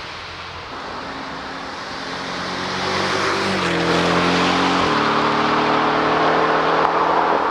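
Porsche 718 Cayman GTS's turbocharged 2.5-litre flat-four driving under load, growing louder with rising tyre and road noise. The engine note steps about three and a half seconds in and drops at about five seconds, as on a gear change.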